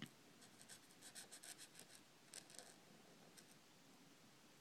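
Faint scratching of a pen or marker rubbed back and forth on paper while colouring in a drawing, in quick repeated strokes.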